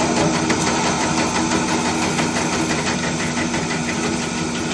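Drill press switched on and running steadily, its electric motor giving a loud, even hum.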